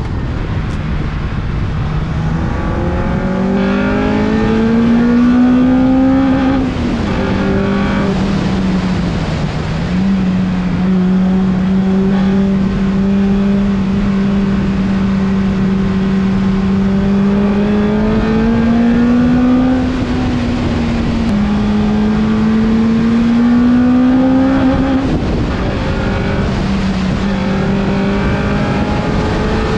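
Honda Civic Type R EP3's 2.0-litre four-cylinder VTEC engine and baffled exhaust under acceleration. The pitch climbs several times and drops suddenly as the gears are changed, about 7 and 21 seconds in and again near 25 seconds, with a steady stretch of running at about the same speed in between.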